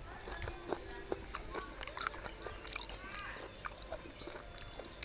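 Close-up mouth sounds of someone chewing and eating spicy seafood papaya salad with shrimp and crab: soft wet smacks and small clicks scattered through.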